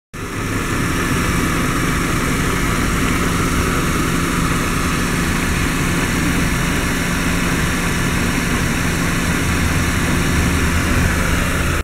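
Mercedes-Benz M271 1.8-litre supercharged four-cylinder engine of a 2004 W203 C200 Kompressor idling steadily, its pitch and level even throughout.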